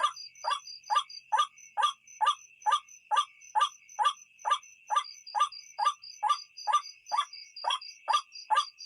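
White-breasted waterhen (ruak-ruak) calling over and over, one short harsh note about every half second in a steady unbroken rhythm, the lure call used to draw the birds at night. Insects trill steadily behind it.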